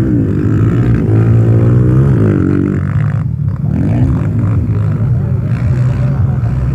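Motocross motorcycle engines running, their pitch rising and falling as they rev. The higher engine note cuts off suddenly about three seconds in, then another rev rises and falls a second later.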